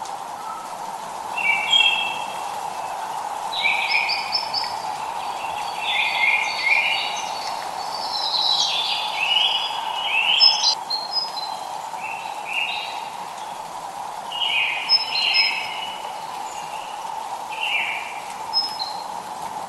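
A songbird singing short phrases of chirps every second or two, over a steady hiss of drizzle.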